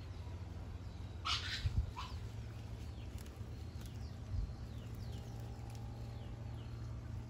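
Birds calling by the river: a sharp call falling steeply in pitch about a second in and a shorter one just after, then a run of faint falling chirps, over a steady low rumble.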